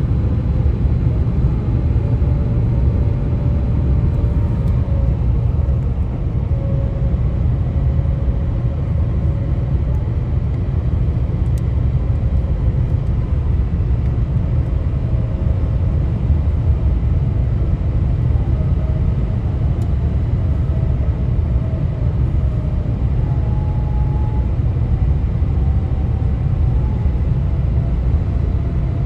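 Tyre and road noise of a vehicle travelling on US-127, a steady low rumble. Above it are faint humming tones that slowly drift higher in pitch: the highway's 'ghost noises'.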